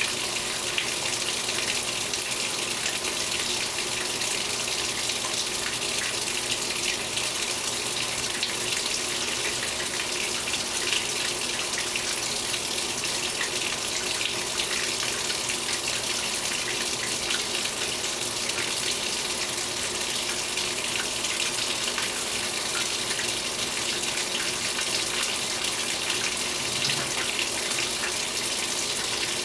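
2015 Speed Queen 8 Series top-load washing machine with water running into its tub as it fills, a steady rushing hiss.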